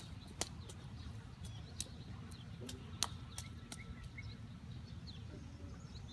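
Small birds chirping in short, high, falling notes, with scattered sharp clicks, loudest about three seconds in, over a steady low rumble.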